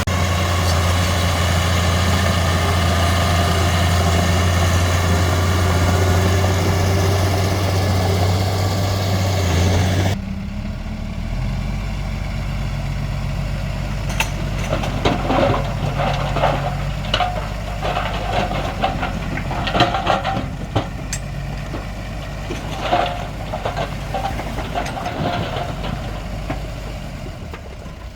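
Heavy diesel earthmoving machinery: an engine runs steadily at high revs. About ten seconds in, the sound changes abruptly to a lower engine rumble with repeated sharp metallic clanks and knocks.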